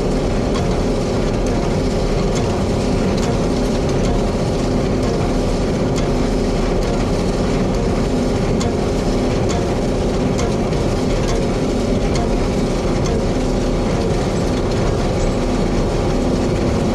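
A tractor engine running steadily, with a light, irregular mechanical clatter of machinery over it.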